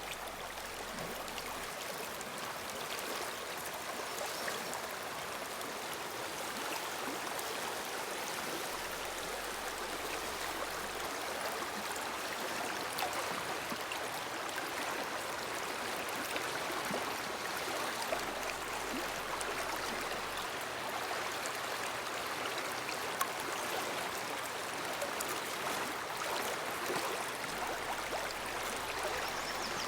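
Shallow woodland brook running over rocks, a steady rushing and burbling flow.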